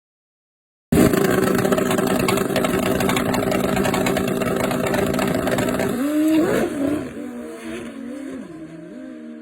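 Turbocharged Suzuki GSX-R1000 motorcycle engines running at high revs. The sound cuts in suddenly about a second in and holds a loud, steady pitch, then after about six seconds the pitch wavers up and down and the sound fades.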